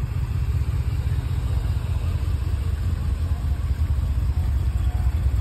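BMW E38 740i's 4.4-litre V8 idling steadily, a low even rumble.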